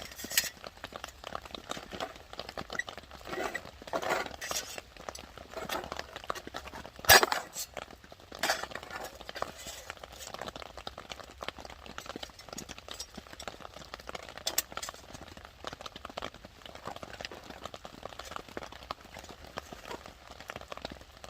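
Stainless-steel wood-burning camping stove being put together: thin metal parts clinking and knocking as they are fitted, with one louder clank about seven seconds in.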